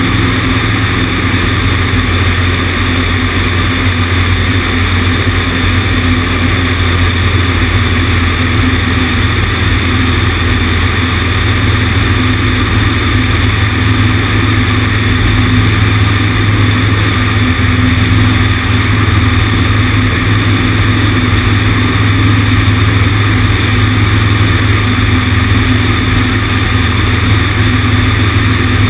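Cessna 150's four-cylinder Continental O-200 engine and propeller running steadily with a low drone, mixed with wind rushing over the wing-mounted microphone.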